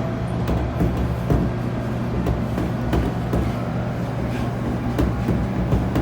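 JR Kyushu 811 series electric train running, heard inside the car: a steady low rumble and hum from the running gear, with scattered light clicks and knocks.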